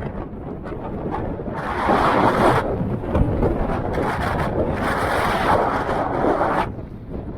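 Strong blizzard wind buffeting the microphone: a constant low rumble, with louder hissing gusts about two seconds in and again from about four and a half to six and a half seconds.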